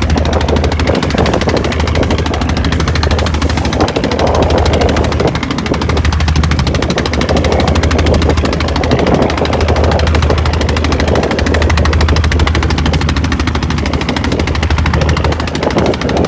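Boat engine running steadily at speed, a fast, even chugging beat close by.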